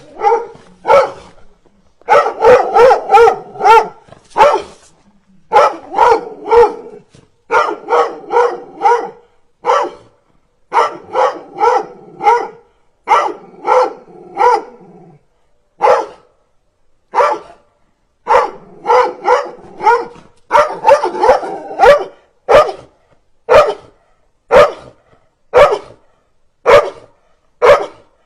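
Dog barking: fast runs of sharp barks, then single barks about once a second toward the end.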